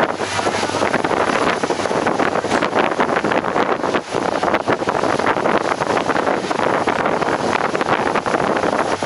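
Loud, steady running noise of a passenger train coach in motion, heard from on board: wheels on the track and the coach rattling, mixed with wind buffeting the microphone.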